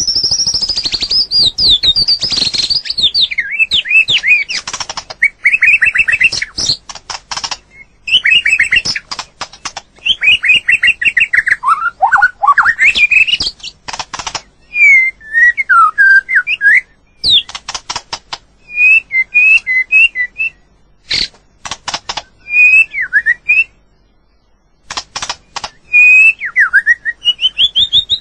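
White-rumped shama singing: a run of varied whistled phrases sliding up and down in pitch, mixed with many sharp clicks, with a short pause a little past three-quarters of the way through.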